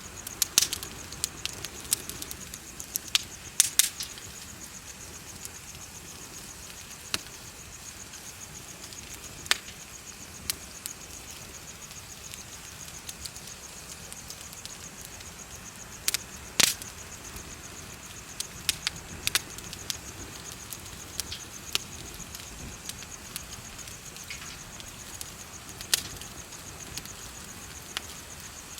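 Wood bonfire crackling, with irregular sharp pops and snaps, some in quick clusters. Behind it, insects chirp in a steady high trill.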